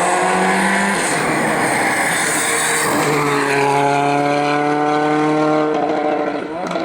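Race car engine running hard at high revs, with a rougher, noisier stretch over the first couple of seconds before settling into a steady held note.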